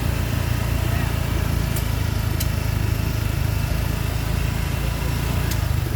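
Small ride-on vehicle's engine running steadily as it drives slowly along, with a few faint clicks.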